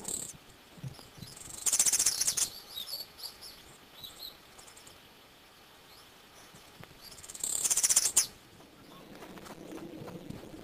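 Bird calls in two bursts of rapid, high-pitched trilled notes, each under a second long: one about two seconds in and another about seven and a half seconds in.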